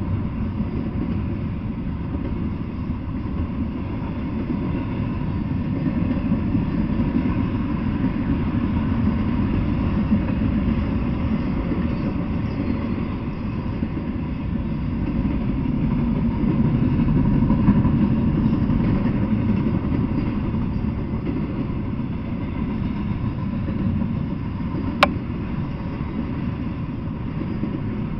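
Double-stack intermodal freight train rolling past, a steady low rumble of wheels on rail that swells and eases gently. A single sharp click comes near the end.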